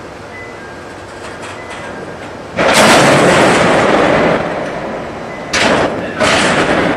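Freight train of empty Taki 1000 oil tank wagons starting to move, with three sudden loud bursts of noise: the first lasts nearly two seconds, then two shorter ones follow close together near the end.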